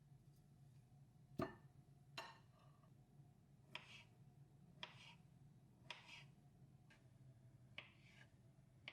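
Faint handling sounds in a quiet room: about seven light clicks and taps spread out irregularly, the loudest about a second and a half in, over a low steady hum.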